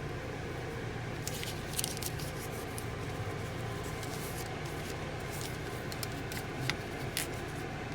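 A steady low hum and background noise, with scattered small clicks and rustles of objects being handled.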